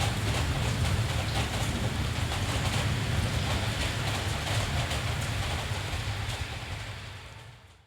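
Steady rain with a low, constant rumble underneath, fading out over the last second or so.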